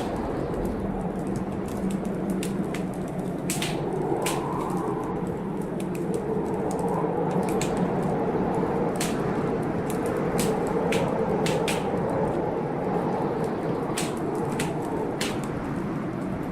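Wood fire in a fireplace crackling, with frequent sharp pops, over a steady rush of storm rain and wind.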